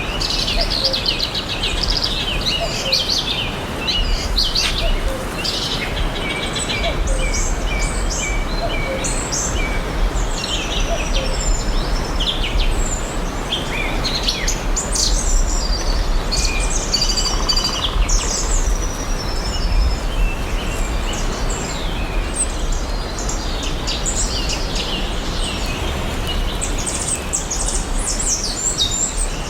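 Several birds chirping and singing together in a forest, many short overlapping chirps and trills, over a steady background hiss and a low rumble.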